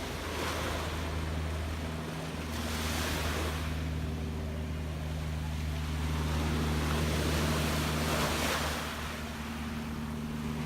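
Gentle sea waves washing in, swelling and falling back every few seconds, over a steady low engine hum.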